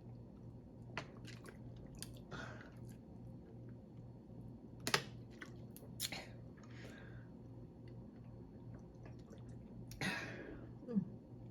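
A person chewing food in a mukbang, with wet mouth sounds and a few sharp clicks, over a low steady hum.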